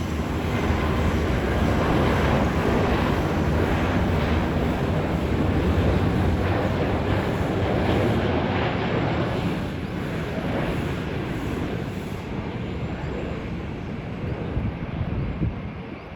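Jet airliner's engines rumbling as it passes close by, loud for the first half, then fading away.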